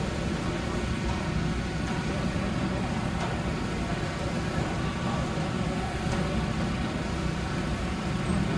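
Steady rumble of car engines running, without a clear rise or fall in revs.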